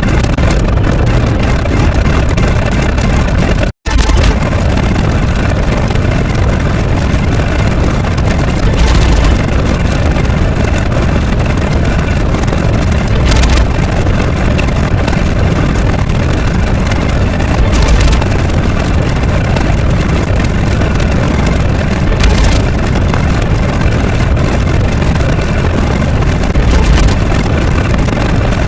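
A loud, steady engine-like rumble with short swells about every four and a half seconds, cutting out for an instant about four seconds in.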